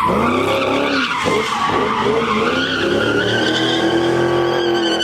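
Pontiac GTO V8 doing a burnout: the engine revs up and down, then is held at high revs with the rear tyres squealing steadily through the second half.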